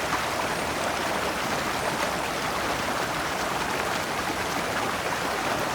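Shallow stream running over rocks in small cascades: a steady rush and splash of water.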